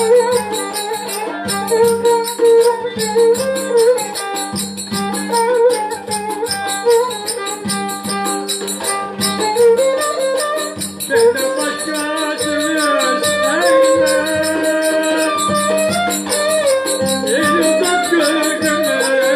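Traditional Turkish folk music: a wavering melody over a steady drone, driven by fast rattling percussion. A second melodic line, likely a voice, joins about halfway through.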